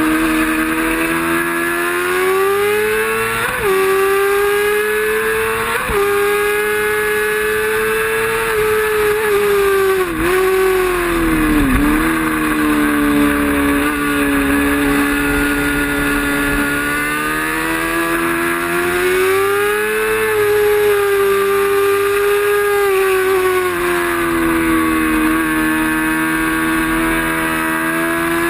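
Racing motorcycle engine running hard at high revs. Its pitch jumps up twice in the first few seconds, dips sharply twice around the middle, then rises and falls again as the revs change.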